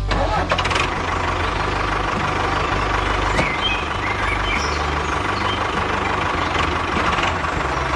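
An engine or motor running steadily, with a low rumble and a faint steady whine. A few brief chirps come in about halfway through.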